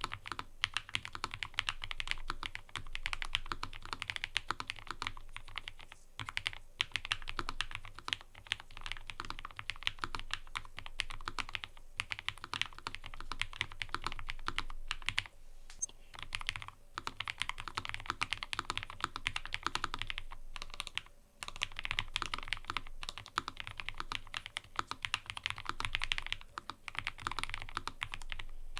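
Fast, continuous typing on a mechanical keyboard: a dense run of key clicks with a few short pauses.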